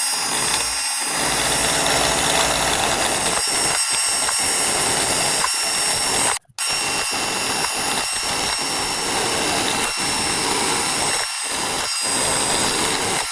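Electric drill spinning a paint-stripping wheel against steel truck body panels: a steady motor whine over grinding. It cuts out for a moment a little past halfway, then runs again.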